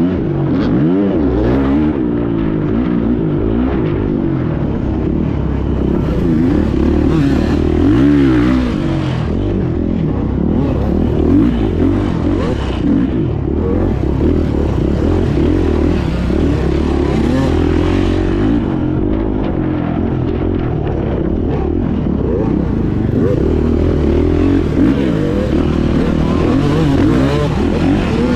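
2024 Beta 430 Race Edition's single-cylinder four-stroke engine being ridden hard off-road, its pitch rising and falling constantly with the throttle and gear changes.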